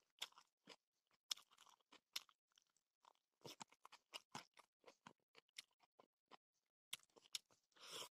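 Faint close-up chewing: a person eating by hand, biting and chewing food with a run of short, irregular crunches, and a longer, louder crunch near the end.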